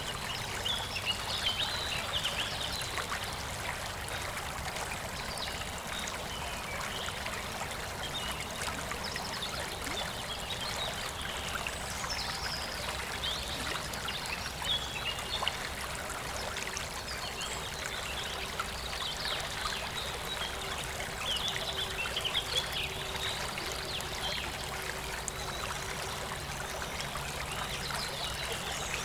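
Clear, shallow river water flowing and babbling steadily over stones, with small birds chirping now and then.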